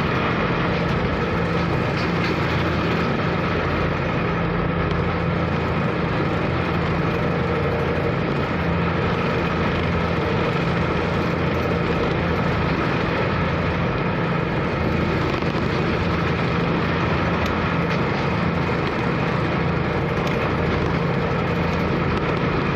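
Car ferry's engine running with a steady low drone, heard from on board, over a constant even hiss.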